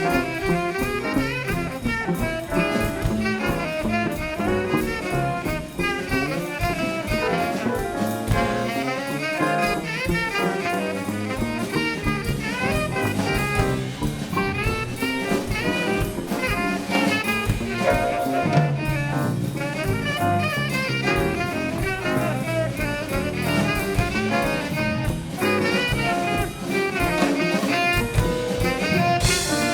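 Jazz music from a band: saxophone and brass melody lines over a drum kit playing a steady beat.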